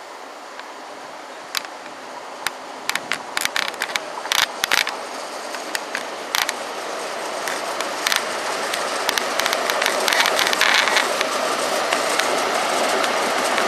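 InterCity 125 High Speed Train approaching along the platform, its power car's engine and wheel noise growing steadily louder as it nears. A string of sharp clicks and ticks comes over the first half, before the train arrives.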